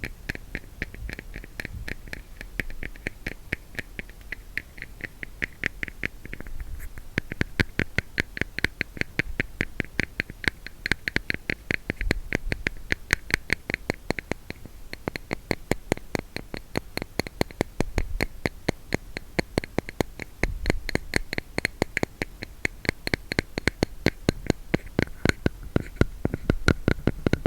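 Fingers tapping fast and evenly on a plastic hair-wax case, several taps a second, kept up without a break.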